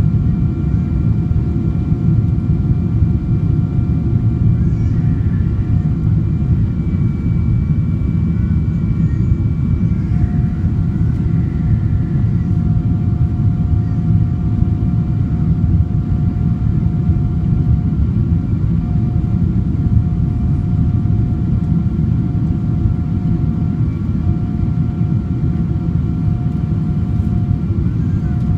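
Boeing 777-200ER cabin noise from inside the economy cabin: a loud, steady engine and airflow rumble with a few thin, steady whining tones from the engines.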